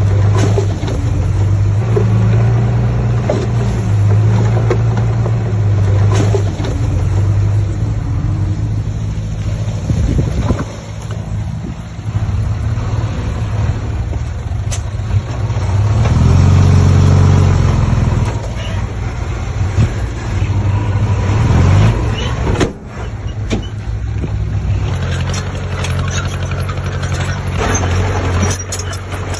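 Heavy diesel engine of construction machinery running under load, its pitch shifting as it works, with a rev up and back down about halfway through.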